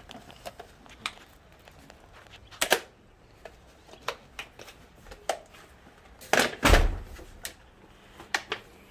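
Irregular clicks and knocks of parts and tools being handled during suspension work, with one heavier knock and thump about six and a half seconds in.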